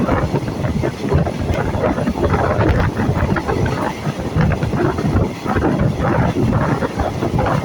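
Passenger train running on the line, its rumble heavily buffeted by wind on the microphone.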